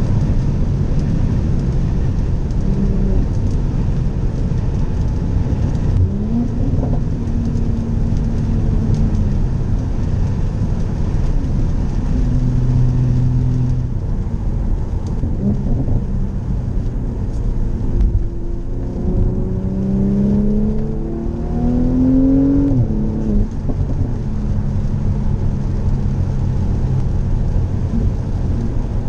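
Mercedes-AMG SLC 43's 3.0-litre twin-turbo V6 running on the move under steady tyre and road noise. The engine note steps up and down through gear changes, with a longer rise in revs about two-thirds of the way in, ending in a drop at the shift.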